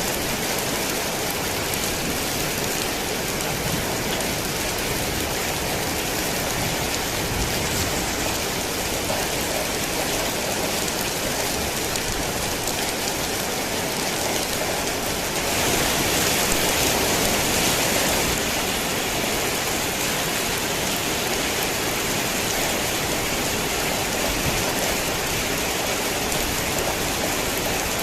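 Heavy rain falling steadily, a dense even hiss of drops, growing briefly heavier for a couple of seconds a little past the middle.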